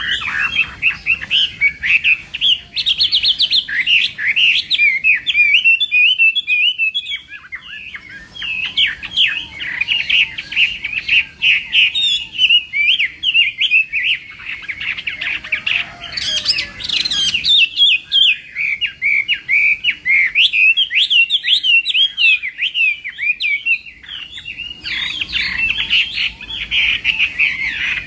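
Chinese hwamei singing a long, fast, varied song of whistled phrases and trills, pausing briefly about six seconds in and again a few seconds before the end.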